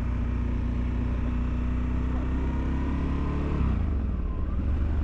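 Motorcycle engine running steadily on the road. About three and a half seconds in, the engine note drops in pitch as the revs fall.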